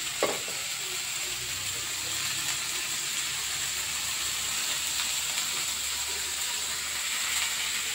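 Long beans frying in a wok on a gas stove: a steady sizzling hiss. A single sharp knock sounds about a quarter second in.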